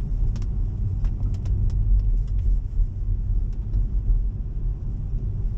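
Steady low road and tyre rumble inside a moving Tesla's cabin, with scattered faint ticks at irregular intervals.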